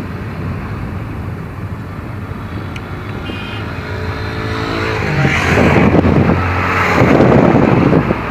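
Motor vehicle running on a street: a steady low engine hum with road noise, growing much louder and rushing about five seconds in.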